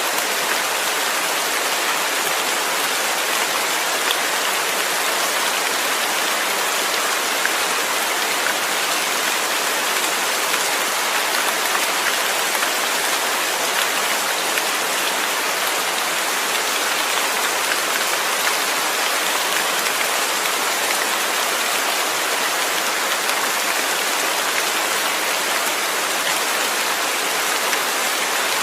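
Steady rain falling: an even, unbroken hiss of many drops that does not change in strength.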